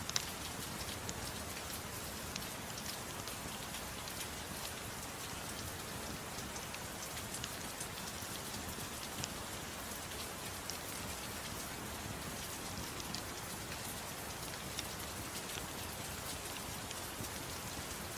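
Soft, steady rain mixed with the scattered small, sharp crackles of a wood fire.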